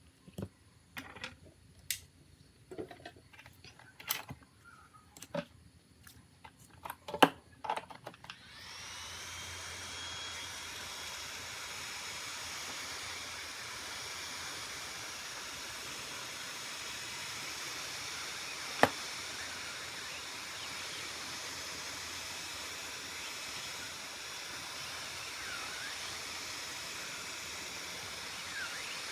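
Light clicks and taps of handling for about eight seconds, then a small blower motor starts, spins up and runs with a steady airy hiss; one sharp click about nineteen seconds in.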